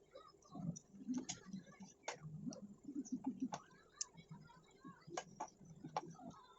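A person eating: chewing and wet mouth sounds, with sharp clicks and smacks scattered irregularly through it.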